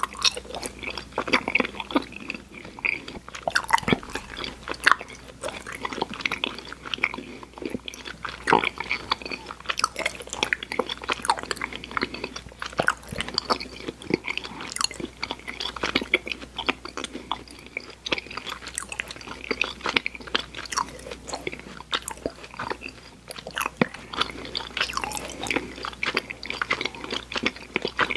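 Close-miked mouth chewing of sour chewy candy: a steady run of quick, irregular clicks and smacks from the jaw and tongue working the sticky candy.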